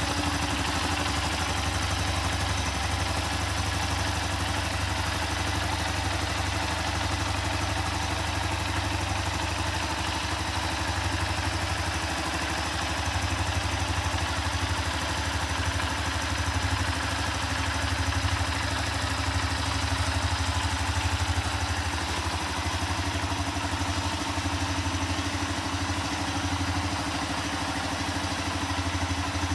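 Honda FTR223's 223 cc air-cooled single-cylinder engine idling steadily.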